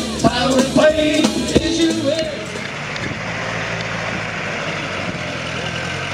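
A rock and roll song with singing and drums ends about two seconds in. It gives way to a steady engine idling, with voices faint beneath it.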